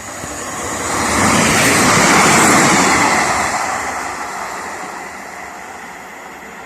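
A vehicle passes close by, its noise swelling to a peak about two seconds in and fading away over the next few seconds.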